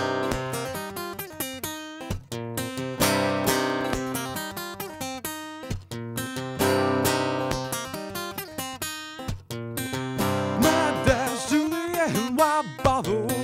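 Acoustic guitar strummed in chords during an instrumental break of a song, with sharp strokes and ringing sustain. Over the last few seconds a melody line that bends and slides in pitch sounds over the strumming.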